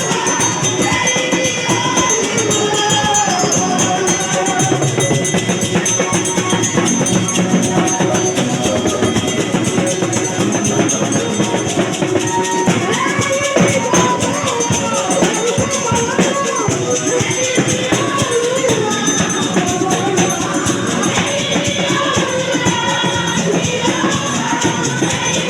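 Group singing of praise music over a steady beat of rattling hand percussion.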